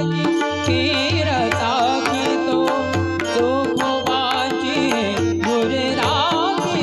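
Marathi abhang devotional music: a wavering melodic line, most likely the singer's voice between words, over steady held accompanying tones, with drum strokes and sharp high cymbal-like ticks keeping a regular beat.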